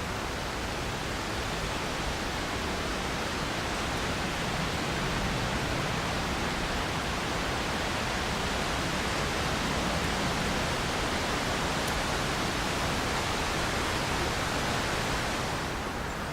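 Wind gusting through trees: a steady rushing that builds over several seconds and dies away near the end.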